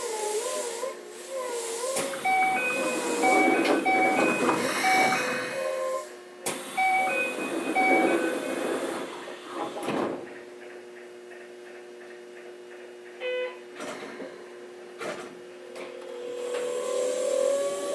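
Inside a Keikyu 600 series car stopped at a station: electronic chime tones play in short steps over a steady hum, a rushing thud about ten seconds in suggests the doors closing, and near the end the Toyo-built VVVF inverter starts its rising whine as the train begins to accelerate.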